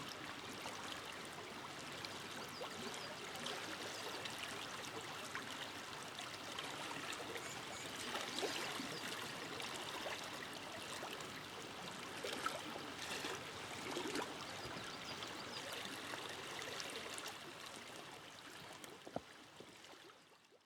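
River flowing in a steady wash of water, fading out over the last few seconds.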